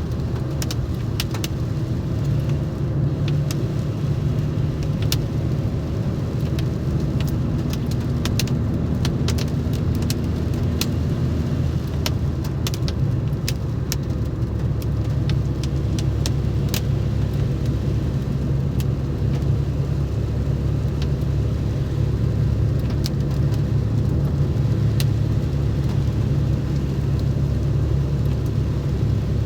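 Vehicle engine running steadily at an even pace, with scattered, irregular sharp ticks of raindrops striking the vehicle, thickest in the first half.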